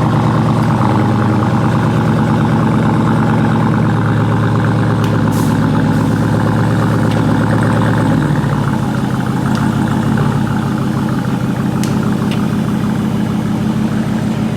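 Loud car engine and exhaust running steadily, with a low, even note; the pitch and level step down slightly about eight seconds in.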